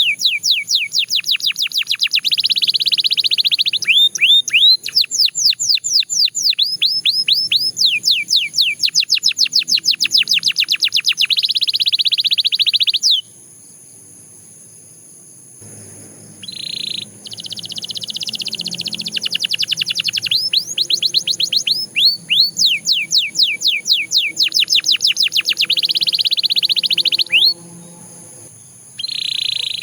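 Belgian canary singing: long, fast trills of repeated falling whistled notes, several a second, with buzzy rolled passages in between. The song breaks off for about three seconds roughly halfway through, then starts again.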